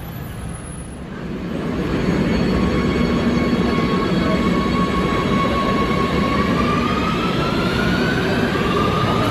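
Electric train pulling away: a rumble that swells over the first two seconds, with a motor whine that holds steady and then rises in pitch from about six seconds in as it gathers speed.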